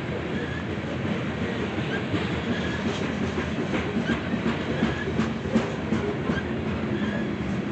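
Railroad cars rolling past with a steady rumble, the wheels clicking over rail joints in a quick run of clacks from about three to six seconds in. Short high squeaks recur throughout, which the railfan takes for the tracks.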